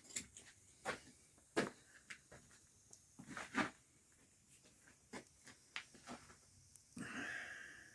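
Low wood fire crackling in an open fireplace as it burns down: irregular sharp pops, with a short hiss near the end.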